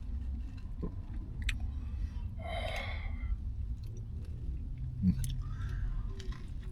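A person chewing a mouthful of turkey, bacon and ranch sub sandwich, with wet mouth sounds and small irregular clicks. There is a short, louder noisy sound about two and a half seconds in.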